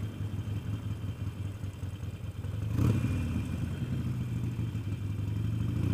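Motorcycle engine running steadily under way, with a low, even hum. A single brief knock or clatter comes about three seconds in.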